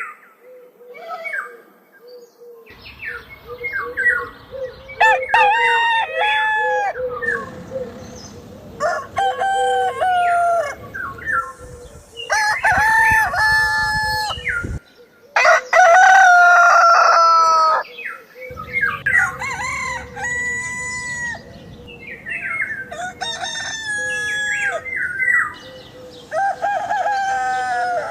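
Roosters crowing, one cock-a-doodle-doo after another about seven times, with some clucking between crows.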